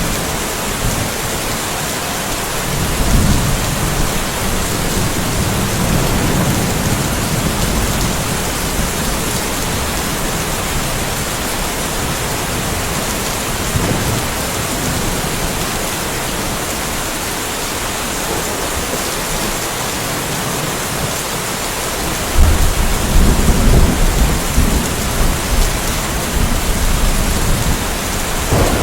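Steady rain falling, a dense even hiss, with distant thunder. The thunder rumbles low a few seconds in, again a little later, and more strongly from about three-quarters of the way through.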